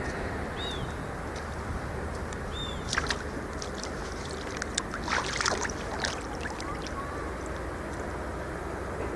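Lake water splashing and sloshing in short bursts, about three seconds in and again between five and six seconds, over a steady low rumble of outdoor background noise. A couple of short high bird chirps come near the start.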